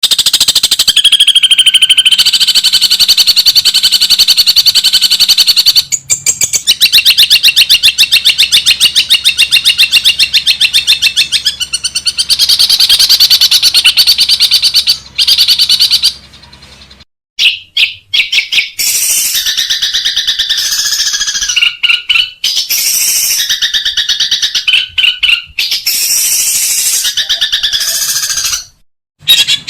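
Long-tailed shrike (cendet) calling loudly for bird training: a long, fast rattling run of repeated high notes. After a brief break about 17 seconds in, it switches to varied, broken calls with short pauses.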